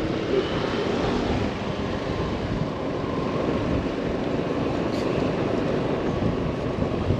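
Motorbike on the move, its engine running under steady wind rush and buffeting on the microphone.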